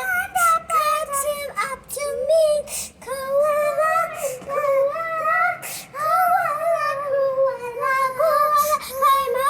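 Young girls singing a wordless, high-pitched tune with gliding, wavering notes, broken by short breaths.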